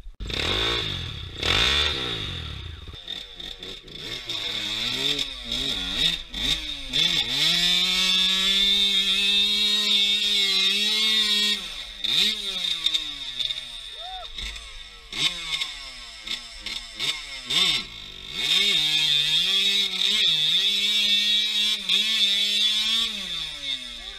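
Enduro dirt bike engine revved hard while the bike is stuck in a muddy ditch: quick throttle blips, and twice held at high revs for several seconds.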